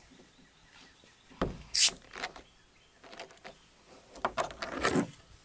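A plastic Diet Coke bottle being opened: a knock, a short hiss of escaping carbonation as the cap comes loose, then scattered clicks and knocks of the bottle being handled.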